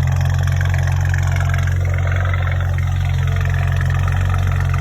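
BMW N54 twin-turbo straight-six idling steadily.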